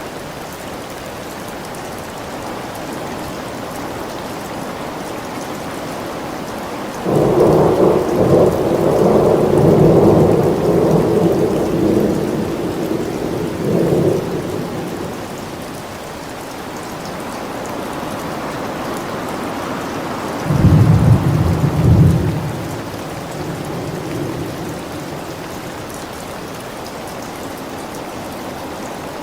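Steady rain with two rolls of thunder. A long, loud rumble starts suddenly about a quarter of the way in and fades over several seconds; a shorter, deeper clap comes about two-thirds of the way through.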